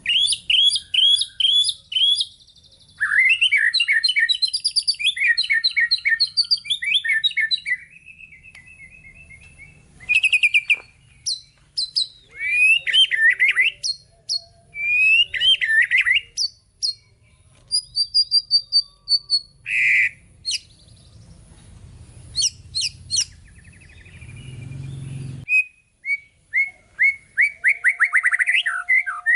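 White-rumped shama (murai batu) singing a long, varied song: fast runs of repeated notes, rising and falling whistles and trills, broken by short pauses between phrases.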